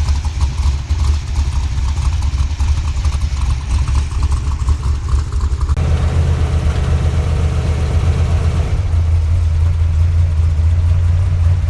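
A vehicle engine running steadily with a low drone. Its tone shifts about six seconds in and again about nine seconds in.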